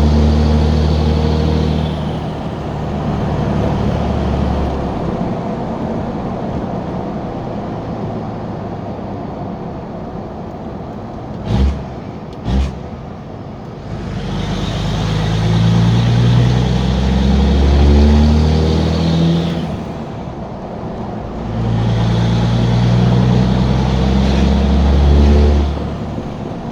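2003 Cummins 5.9 L inline-six turbodiesel through a straight-pipe exhaust, driving. It pulls under load at first, then runs lighter off the throttle, with two sharp knocks about halfway through. It then pulls hard twice, rising in pitch each time, with a short let-up between the two pulls.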